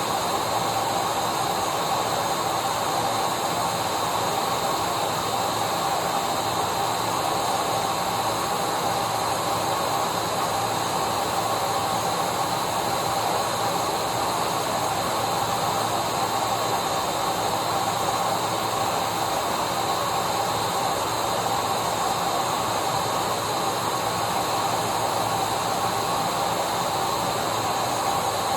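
Vacuum cleaner running steadily: an unchanging rushing hiss with a constant whine on top.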